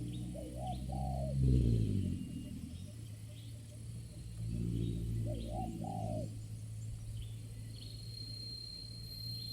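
Spotted doves cooing: one phrase about a second in and another around five to six seconds, with a small bird chirping faintly at an even pace.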